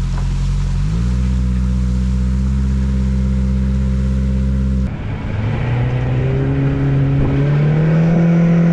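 Boat's outboard motor running steadily, its pitch stepping up about a second in. The sound breaks off abruptly about halfway through, and an engine then climbs in pitch twice.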